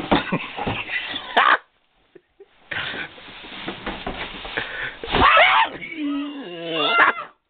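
A person gasping and wheezing with breathless laughter, breaking into high, squeaky wheezes near the end.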